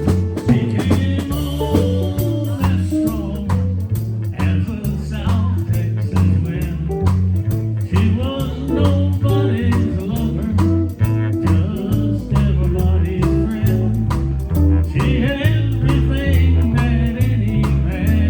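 Live country band playing: electric bass, drum kit, fiddle and lead guitar on a steady beat, with a singer's voice coming in and out in phrases.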